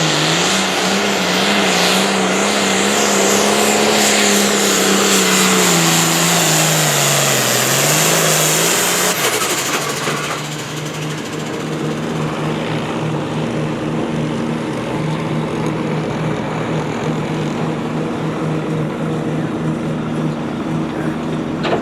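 A pulling tractor's engine is held at high revs, then throttles down about six to eight seconds in and settles into a quieter, steady lower running after its pull has finished.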